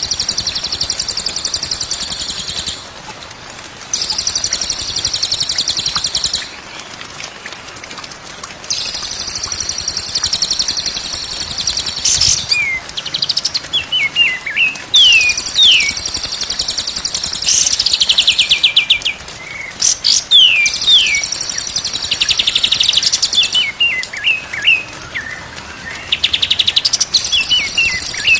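Cage-songbird song of the kind used as a training (masteran) track: long, high, hissing trills lasting a few seconds each, alternating with runs of quick whistled notes that sweep up and down.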